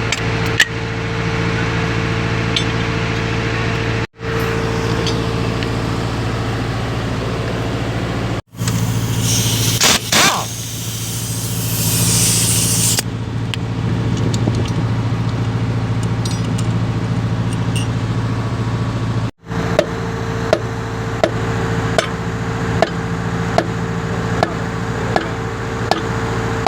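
An engine running steadily with an even hum. In the middle a loud hiss like a spray or air jet lasts about four seconds, and in the last part a regular clicking comes in, about one and a half clicks a second.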